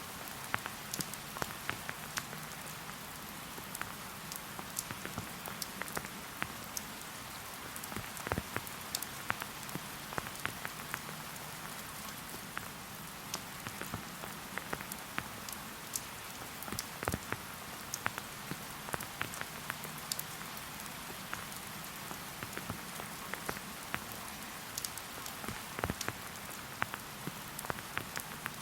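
Rain falling steadily: an even hiss with many single drops ticking sharply close by.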